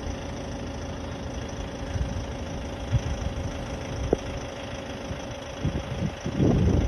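Vehicle engine idling steadily, with two short knocks partway through and louder, uneven rumbling near the end.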